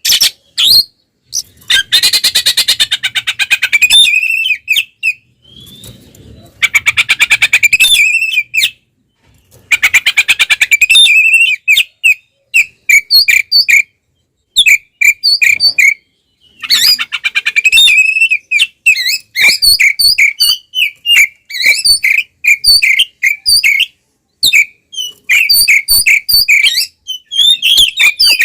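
Oriental magpie-robin (kacer) singing loudly in combative, full song: bursts of rapid, high trills alternating with runs of short, sharp whistled notes with brief gaps between them.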